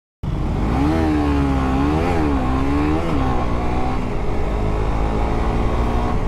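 Motorcycle engine revving, its pitch rising and falling several times in the first few seconds, over a steady low engine and traffic rumble.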